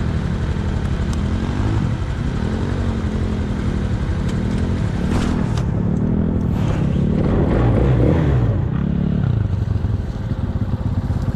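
Small off-road vehicle engine running under a rider, its pitch rising and falling again and again as the throttle is worked, with some rattling.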